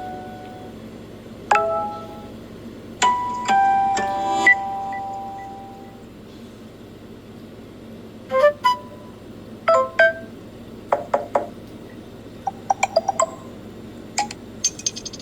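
Samsung Galaxy S6 notification tones played one after another: several short electronic chimes and quick clusters of beeps, each lasting about a second or less, separated by short gaps.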